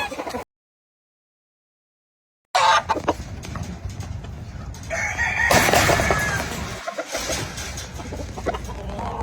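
Gamefowl rooster crowing once about halfway through, among other chickens. The sound drops out completely for about two seconds near the start.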